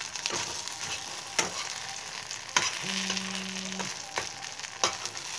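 Besan-battered okra shallow-frying in hot oil in a pan, with a steady sizzle. A spatula scrapes and taps against the pan in about five sharp clicks, and a brief low hum sounds about three seconds in.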